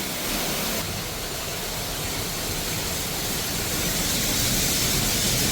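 Waterfall rushing, a steady roar of falling water heard close up from behind the falls, slowly growing a little louder.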